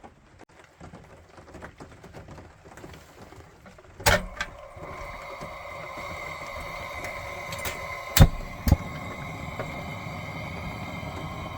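Sharp clicks, then a steady hiss of a propane appliance, such as a heater or lantern, running in the small trailer from about four seconds in. Two more sharp clicks come a half-second apart partway through.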